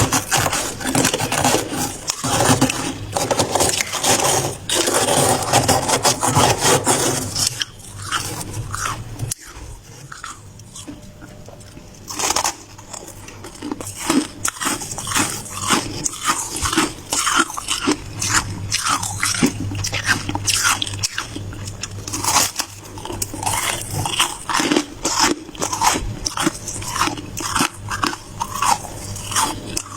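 Ice being bitten and chewed close to the microphone: loud, dense crunching, a quieter pause about a third of the way in, then quick sharp crunches several times a second.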